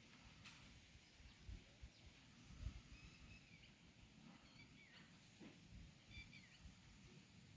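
Faint, scattered bird calls: a few short chirps, about three seconds, five seconds and six seconds in, over soft low thumps and rumble.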